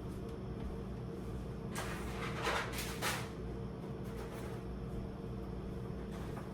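Groceries being handled and put away in a refrigerator: two or three brief rustles of packaging about two to three seconds in, over a steady low hum.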